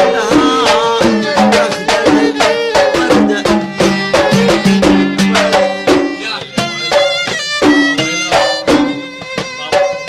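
Instrumental passage of Gulf sawt music: a violin plays an ornamented melody over a steady rhythm of mirwas hand drums.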